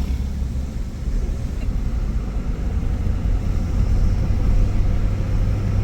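Suzuki Jimny engine and road noise heard from inside the cabin while driving: a steady low drone.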